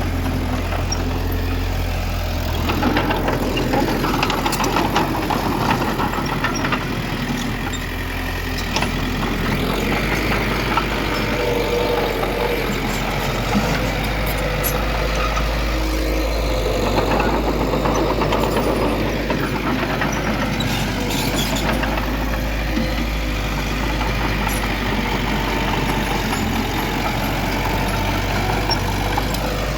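Heavy diesel earthmoving machinery running steadily with a deep engine hum, with scattered clanks and rattles from the working machine.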